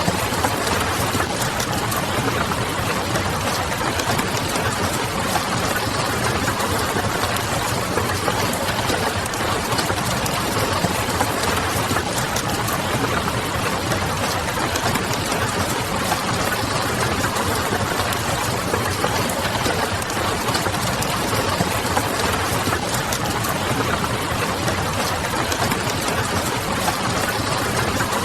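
Steady rain mixed with the crackle of a wood fire, the fire's pops scattered through an even wash of rain noise over a low steady hum.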